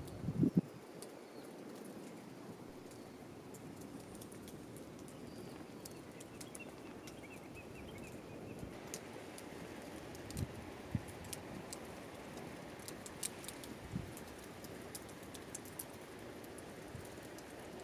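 Wood fire crackling, with scattered sharp pops and ticks and a few dull low knocks, the loudest about half a second in.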